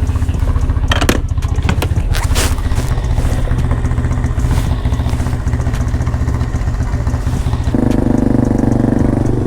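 Quad (ATV) engine idling with a steady low putter, with a few sharp clicks and knocks about a second or two in. Near the end a second, louder, steady engine note joins in.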